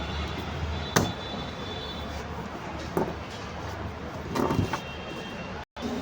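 Sharp knocks and clicks from drill parts and tools being handled, one about a second in, one at three seconds and a short cluster around four and a half seconds, over a steady background rumble.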